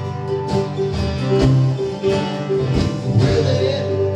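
Acoustic string band playing a country song in a bluegrass style: guitar strumming under other plucked strings. The singer comes back in near the end, singing the word "willing."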